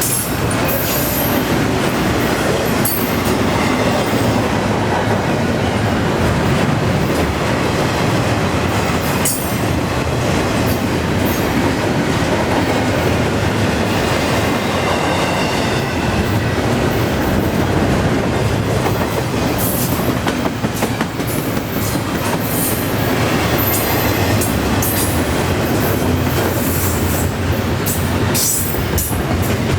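Freight train cars rolling past: a steady rumble of steel wheels on rail, with wheel clicks and brief high-pitched wheel squeals scattered throughout.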